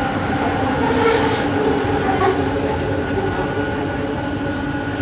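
Bombardier Innovia ART 200 metro train running between stations, heard from inside the car: a steady hum of several held tones from its linear induction motor over the running noise, with a brief high wheel squeal about a second in.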